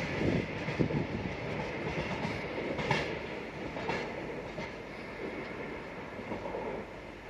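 Train running past on the line and fading away, with a couple of sharp wheel clacks about three and four seconds in.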